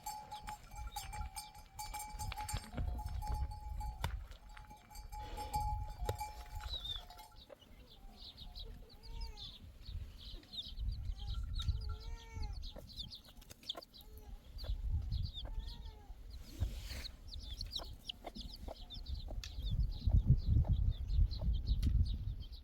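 Livestock and fowl calling, with short arched calls and many quick high chirps from about seven seconds in, over a constant low rumble.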